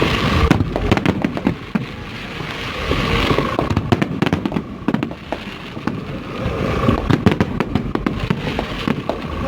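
A fireworks display: a steady barrage of bangs and crackling shell bursts, overlapping one after another in waves.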